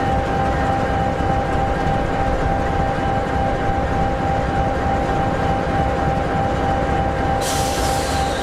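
EMD 16-710G3B sixteen-cylinder two-stroke diesel of an SD60E locomotive idling steadily, a low rumble with a steady whine over it. A short hiss starts about a second before the end.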